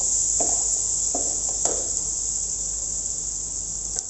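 Chopped onion and garlic sizzling in melted butter in a frying pan: a steady high hiss.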